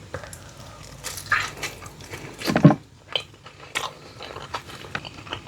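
Close-up eating sounds: biting into and chewing sweet potato topped with cranberry pecan chicken salad, with irregular wet mouth clicks and smacks and one louder bite about halfway through.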